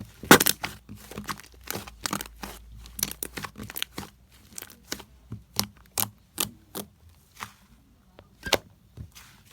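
Slime being squeezed and stretched by hand, giving an irregular run of sharp crackling pops, the loudest about half a second in.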